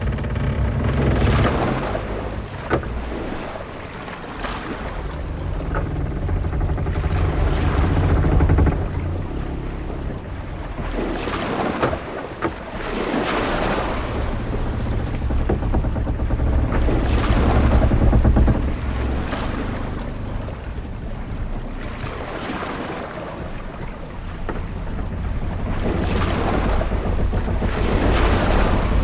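Sea ambience aboard a sailing ship: waves surging against the hull in swells every four to five seconds over a deep rumble of wind and water, with a few sharp knocks.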